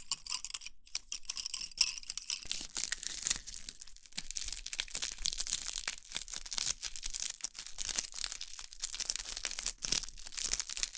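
Close-miked ASMR trigger: a dense, irregular crackling and crinkling of some crisp material being handled.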